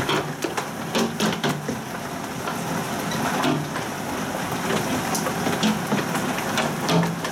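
Heavy rain and hail pelting down: a steady hiss broken by many irregular sharp knocks of hailstones striking hard surfaces.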